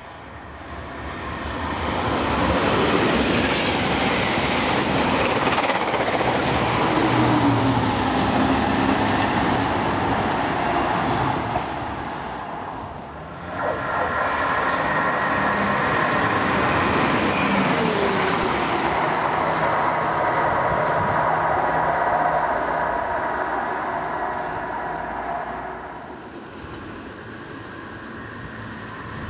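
A loco-hauled passenger train, led by a driving van trailer, passes at speed with a steady rumble of wheels on rail. After a sudden break, a diesel multiple unit runs past with its underfloor diesel engines humming, the pitch falling as it goes by, and then quietens.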